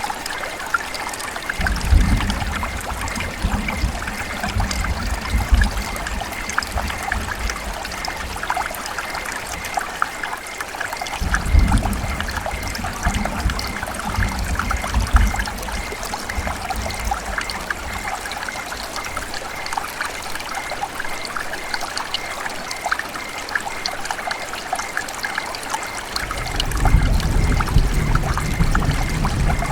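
River water trickling and gurgling steadily. Low rumbles come in three stretches: near the start, around the middle and near the end.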